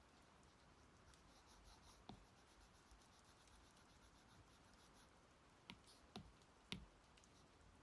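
Stylus tapping and drawing on a tablet screen, very faint: four short light taps, three of them close together near the end, over a low hiss.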